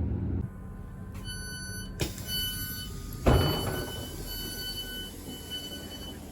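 Passenger train's door warning beeps sounding repeatedly. About three seconds in comes a sharp thud with a short rush of air as the sliding doors open.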